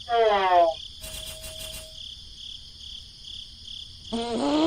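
Crickets chirping steadily in a pulsing high trill. Over it, a voice lets out two short rising calls, one at the start and a longer one near the end, which are the loudest sounds.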